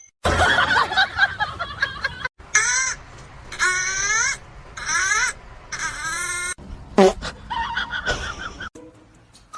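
High-pitched squealing or laughing voice in four short bursts, each a quick run of falling notes.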